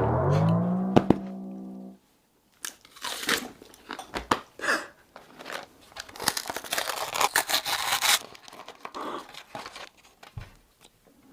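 A loud musical sound effect that glides upward in pitch and holds, cutting off about two seconds in. Then packaging crinkling and tearing in irregular bursts, with some crunching.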